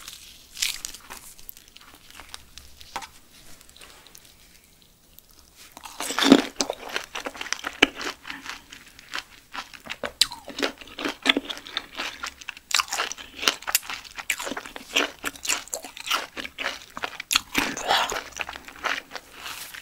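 Close-miked chewing of giant silkworm pupae. It is quiet with a few faint mouth clicks at first, then there is a loud wet burst about six seconds in, followed by steady wet chewing clicks and crackles.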